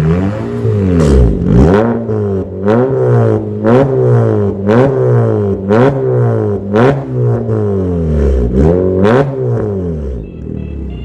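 Honda HR-V engine revved repeatedly through an aftermarket stainless full-system exhaust with a valvetronic valve, the revs rising and falling about once a second, with sharp cracks at many of the rev peaks. Music comes in near the end.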